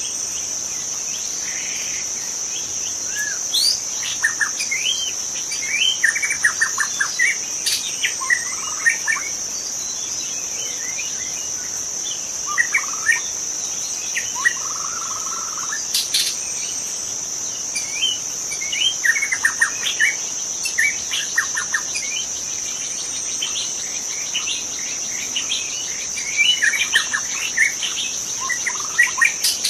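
White-rumped shama singing in bouts of varied whistles and quick trills, with pauses between phrases, over a continuous high-pitched insect drone.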